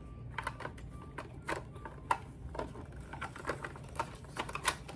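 Small plastic toy pieces and packaging being handled: irregular light clicks and taps, about one or two a second.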